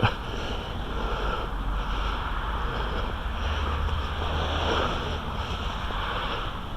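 Wind noise on the microphone: a steady low rumble and hiss, with a short knock right at the start.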